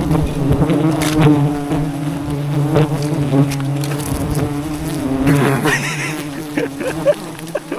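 A swarm of bees buzzing in a dense, steady drone, stirred up as their hive is being raided for honey, with scattered knocks from the work going on.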